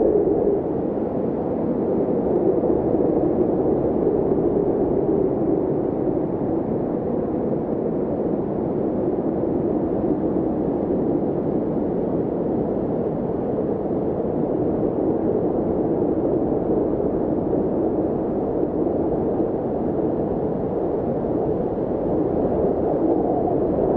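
Steady, even rushing noise, centred low to mid in pitch, with no rhythm or distinct events.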